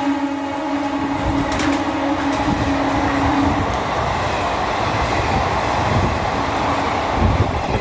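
High-speed train rushing past at speed: a steady rush of carriage and wheel noise with uneven knocks of wheels over rail joints. The low note of its horn, just dropped in pitch, holds on for the first three and a half seconds before fading out.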